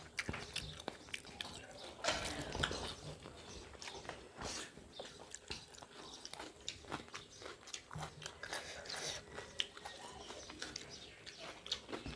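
Close-up eating by hand: chewing and lip-smacking of rice and fish khichdi, with irregular wet clicks and a few louder crunches, the loudest about two seconds in.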